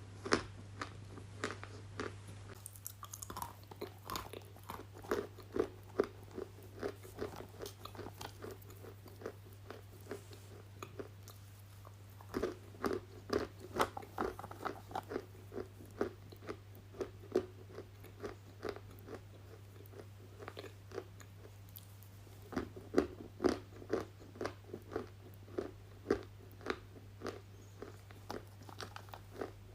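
Close-miked chewing of crunchy food: a steady run of crisp crunches and bites, two or three a second, over a faint steady low hum.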